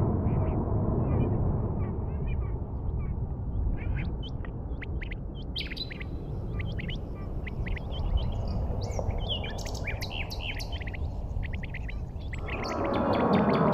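Birds chirping over a steady low rumble. Near the end a louder sound with gliding pitch comes in.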